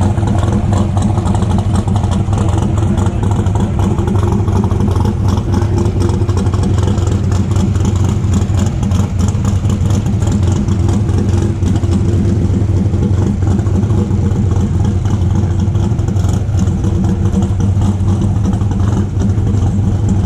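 A car engine idling steadily and loud, its pitch holding level with no revving.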